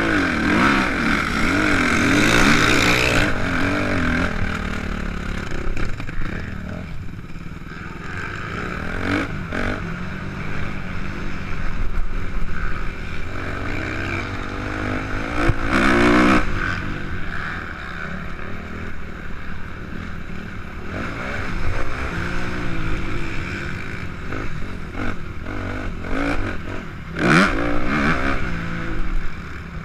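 Suzuki RM-Z 250's single-cylinder four-stroke engine revving up and down as the motocross bike is ridden hard around the track, its pitch rising and falling through the gears. The loudest bursts of hard acceleration come in the first few seconds, about halfway through, and near the end.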